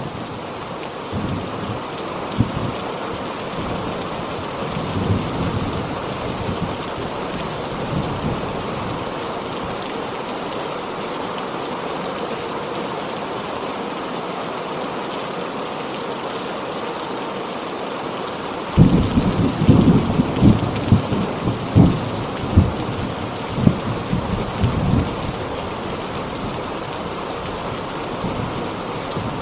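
Heavy rain falling steadily, with a few faint low rumbles of thunder early on. About two-thirds of the way through a loud thunderclap breaks, crackling and rumbling for several seconds before the rain alone carries on.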